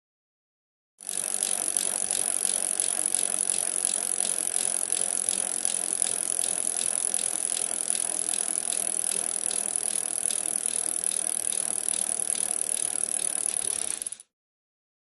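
Rapid, even mechanical ratchet clicking that starts about a second in, holds steady, and cuts off abruptly near the end.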